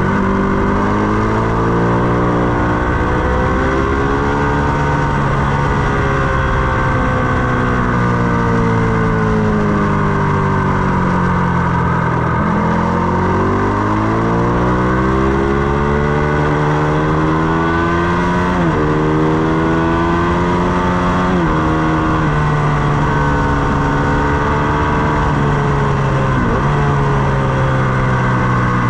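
Ducati Panigale 899's V-twin engine on track: it winds down for about twelve seconds as the bike slows, then pulls hard, rising in pitch through the gears with three upshifts, each a sudden drop in pitch, near the middle and toward the end. Steady wind rush runs under it throughout.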